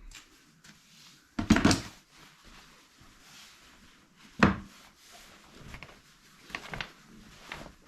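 Strong magnets clacking into place while a soot sheet is fixed over a fireplace opening: a few sharp knocks, the loudest about one and a half and four and a half seconds in, with smaller ones near the end.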